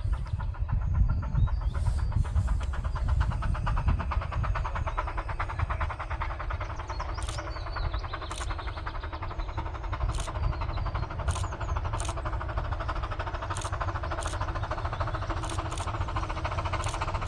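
Miniature steam train on a 15-inch gauge railway running steadily, with a dense rumble and a fast, even clatter. In the second half come a series of sharp clicks, roughly one a second.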